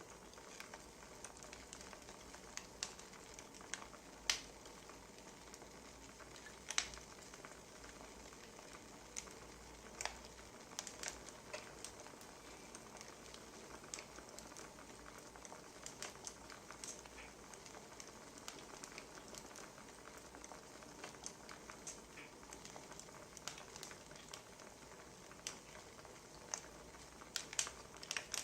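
Wood fire crackling: irregular sharp snaps over a soft, steady hiss.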